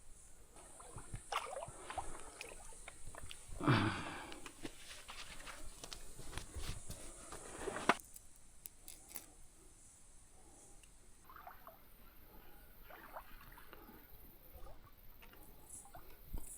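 Shallow creek water sloshing and splashing as someone wades through it, in irregular bursts with the loudest splash about four seconds in, among small knocks and rustles.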